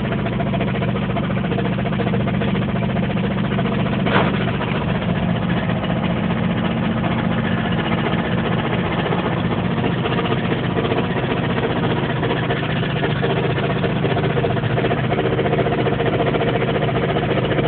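A failing car's engine running steadily while the car is driven, the driver fearing it will seize if it stops. One short sharp click about four seconds in.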